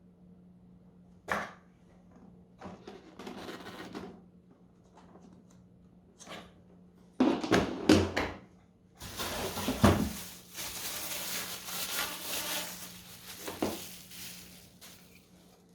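Handling noise from unboxing a Kärcher VC3 vacuum cleaner: scattered knocks and clunks of parts being lifted and set down, the loudest around the middle, then several seconds of uneven rustling of packaging.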